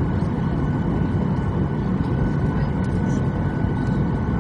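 Steady cabin noise of a Boeing 737-800 in flight: an even low rush of engine and airflow noise, with a few faint steady tones above it.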